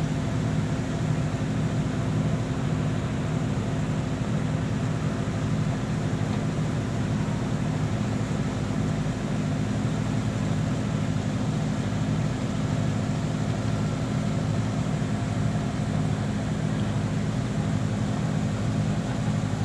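Fishing boat's engine running steadily at low speed, an even low drone that holds unchanged.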